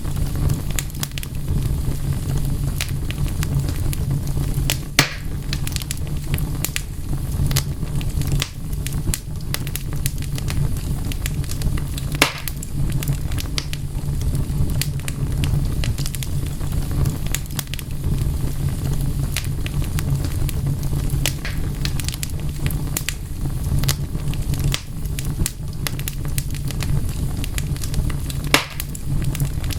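Wood fire burning, with a steady low rumble under frequent crackles and a few sharper pops: about five seconds in, about twelve seconds in, and near the end.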